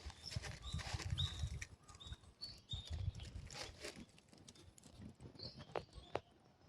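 Irregular footsteps on a mountain trail, each step a soft thump with light scuffing, thinning out in the last couple of seconds. A few short high chirps sound above them.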